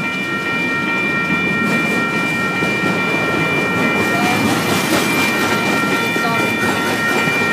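Train running close by: a loud, steady rumble with a high, steady whine of several tones over it.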